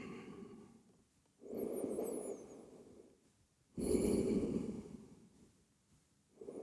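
A person breathing deeply and audibly while resting after a floor bow back bend: two long breaths about two seconds apart, and a third beginning near the end.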